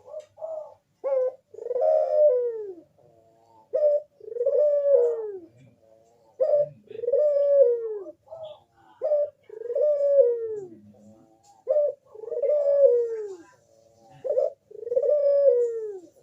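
A crossbred puter dove (domestic ringneck/Barbary dove) cooing in its repeated song: each phrase is one or two short clipped notes followed by a long coo that falls in pitch, about every two and a half seconds, six phrases in all.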